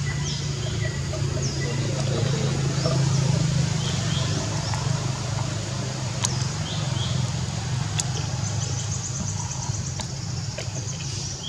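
Birds calling with short, high, falling chirps about once a second, and a fast high trill about two-thirds of the way through, over a steady low hum. Two sharp clicks come in the second half.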